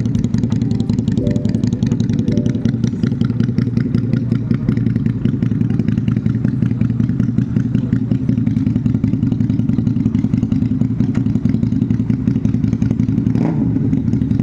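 Customised QJMotor SRV 250's V-twin engine running loud and steady at an even engine speed, its rapid exhaust pulse unbroken.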